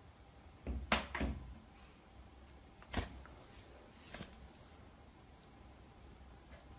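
A few short knocks or clicks: two close together about a second in, another near three seconds and a fainter one just after four, over a low steady hum.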